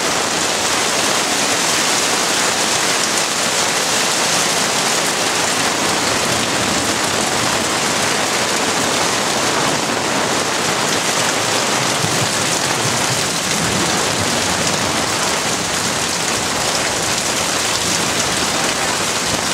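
Heavy rain falling steadily, a dense even hiss of drops hitting surfaces with no letup.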